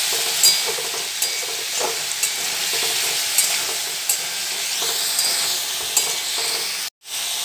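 Pumpkin cubes frying in oil in a metal kadai, sizzling steadily, with a spatula clicking and scraping against the pan as they are stirred and turned. The sound drops out for an instant near the end.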